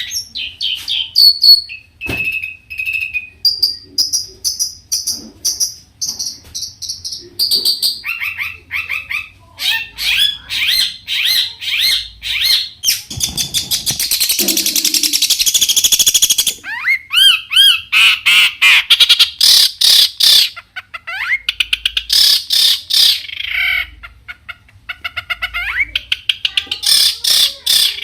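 Long-tailed shrike (cendet) singing a loud, varied song: quick runs of repeated notes and whistles, with a harsh, rapid chatter near the middle.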